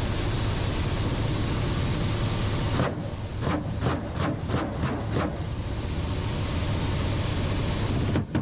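Helicopter engine and rotor noise heard on board, a loud steady rush with a low hum. Between about three and five seconds in, it is broken by a series of about six sharp knocks.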